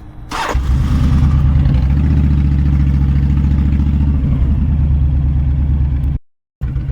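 Motorcycle engine running loud and steady at low revs after a short sharp noise at the start. The sound drops out for a moment near the end, then returns.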